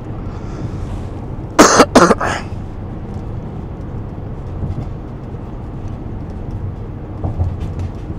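A man coughs hard two or three times about a second and a half in, over the steady low rumble of a van's engine and road noise inside the cabin.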